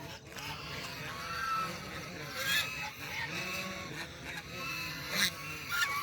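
A flock of birds calling together, many overlapping calls with louder ones about two and a half and five seconds in.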